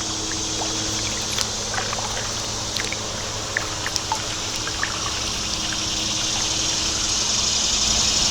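Creek water trickling and dripping close by around a kayak, with small drips and splashes, growing louder toward the end; a steady low hum runs underneath.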